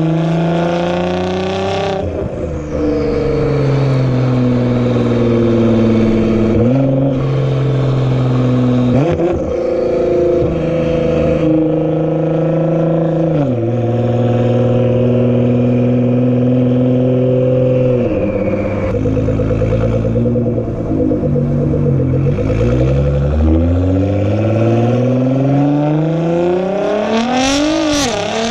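Nissan GT-R's twin-turbo engine running through a straight-piped exhaust while driving, its note holding steady and jumping in pitch several times as it changes speed. Over the last few seconds it revs up in one long rise under hard acceleration.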